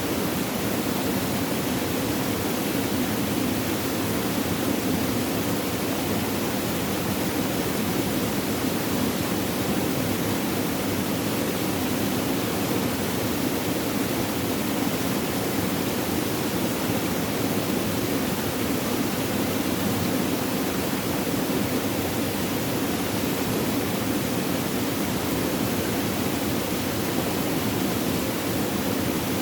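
Flowing water rushing steadily, an even unbroken noise with no changes.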